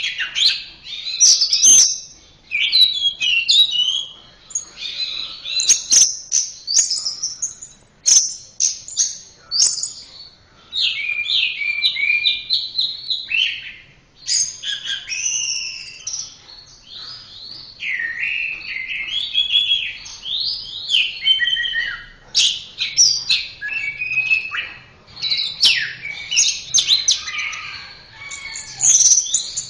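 Orange-headed thrush singing a continuous, rapid, varied song of whistled phrases, quick glides and trills, with a few sharp clicks among them.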